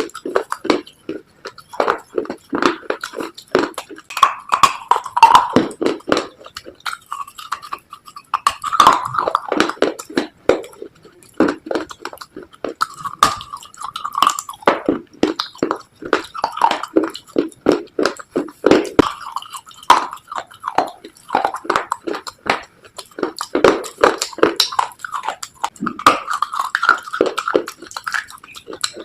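Close-miked chewing and crunching of slate pencil and baked clay pieces: dense, irregular crisp crunches in clusters, with brief pauses.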